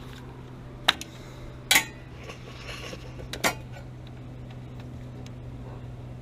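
Three sharp metallic clinks, about a second apart in the first half, over a steady low hum.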